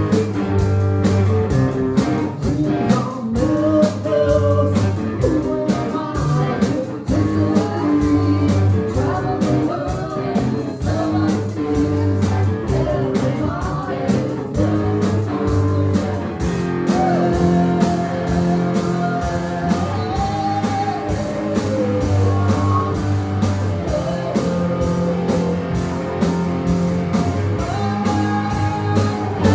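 Live band playing a blues-rock song: guitar over a steady bass line and an even drum beat.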